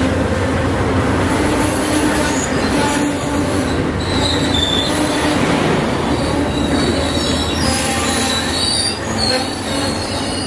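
Amtrak Southwest Chief passenger train rolling in to a stop, a steady rumble of the cars with short high-pitched wheel squeals coming and going, more of them in the second half.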